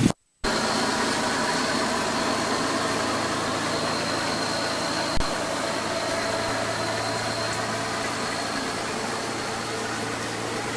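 Steady low hum of a running motor, with one short knock about five seconds in.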